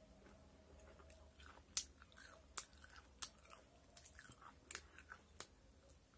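A person chewing fried chicken close to the microphone: faint, irregular crunches and wet mouth clicks between bites.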